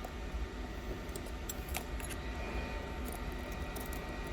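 Steady low hum and hiss of bench equipment, such as a hot air station heating an iPhone 11's back, with a few light clicks of tools against the phone.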